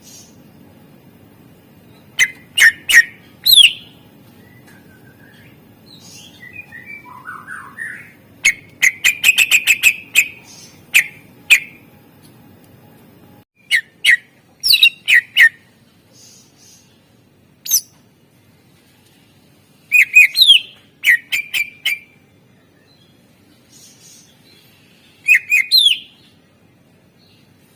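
Greater green leafbird (cucak ijo) singing with mimicked calls of other birds worked in: loud groups of sharp, rising chirps and a fast rattling trill, phrases broken by pauses of a second or more.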